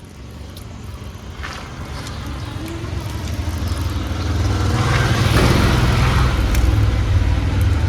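Heavy diesel engine running, growing steadily louder over the first few seconds and then holding at a loud, even drone.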